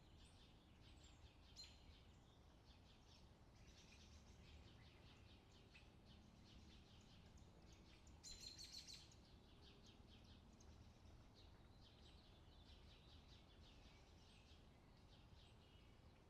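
Faint outdoor summer ambience: birds chirping on and off, with a louder run of quick chirps about halfway through, over low background noise.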